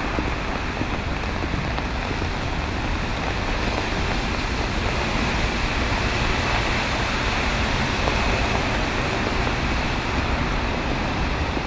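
Steady wash of rain and sleet falling, an even hiss with a low rumble beneath it and no distinct events.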